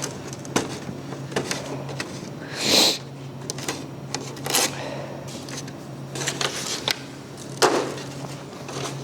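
Plastic seedling flats being handled: a series of light plastic clacks and knocks, with a longer scraping rustle about three seconds in.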